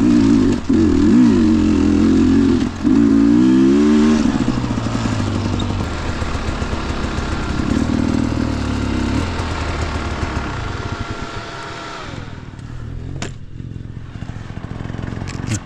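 Dirt bike engine revving hard under throttle with two brief throttle cuts. After about four seconds it drops to a lower, rougher running note with the bike clattering over the trail. About twelve seconds in the revs fall away, and a couple of sharp knocks follow near the end.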